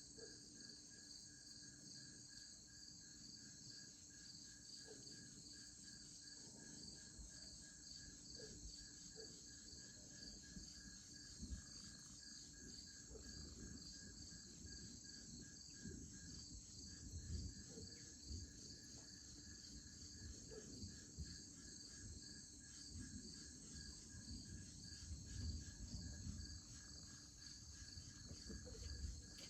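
A steady evening chorus of insects, a fast even pulsing of several high-pitched voices. Faint low rumbling and thumps come and go beneath it, growing stronger in the second half.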